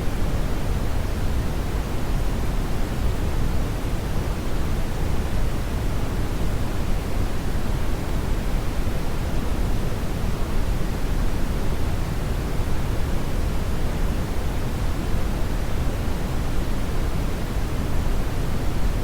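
Steady brown noise: a constant deep rushing hiss, heaviest in the bass and thinning toward the treble, with no change.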